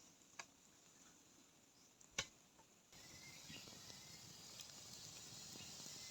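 Near silence with two faint, short clicks, the louder one about two seconds in; about three seconds in, a quiet steady hiss of outdoor background sets in.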